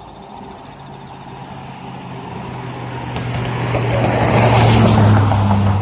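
A road vehicle approaching and passing close by: engine hum and tyre noise build steadily to their loudest about five seconds in, and the engine tone drops slightly as it goes by.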